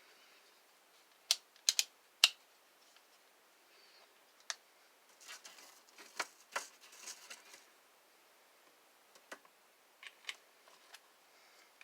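Sharp clicks and taps of small hard objects being handled: a few loud clicks about a second in, a cluster of clicks with light rattling in the middle, and a few more clicks near the end.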